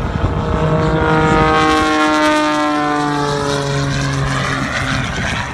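Engine and propeller of a small custom-built aerobatic biplane flying by. The engine tone drops steadily in pitch about two seconds in as it passes.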